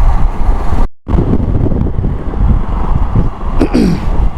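Wind noise on the microphone and road and engine noise from a moving motorcycle, with a brief cut to near silence about a second in. A short falling pitched sound comes near the end.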